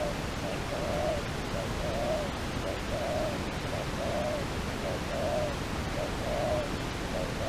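Dove cooing: short, low, arched coos repeated about once a second over a steady background hiss.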